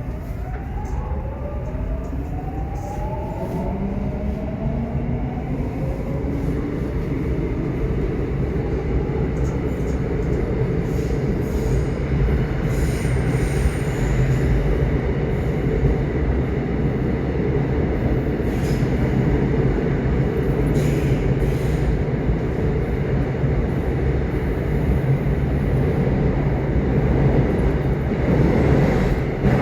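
Subway train running, with a whine that rises in pitch over the first several seconds as the train picks up speed, then a steady, slowly swelling rumble.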